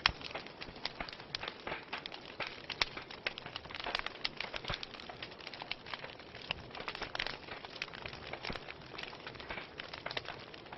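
Wood fire burning in a fireplace, crackling steadily with irregular sharp pops and snaps over a soft hiss; one loud pop right at the start.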